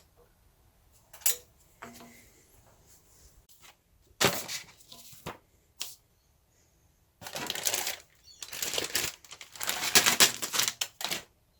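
Handling of packaging: a sharp click about a second in, then several bursts of rustling and crinkling, the longest and loudest near the end, like plastic bags being handled and opened.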